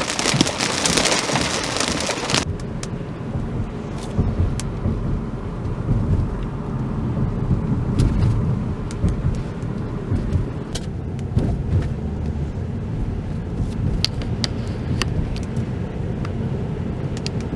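Heavy rain hissing loudly, cutting off sharply about two and a half seconds in. After that a steady low rumble remains, with scattered ticks of drops striking.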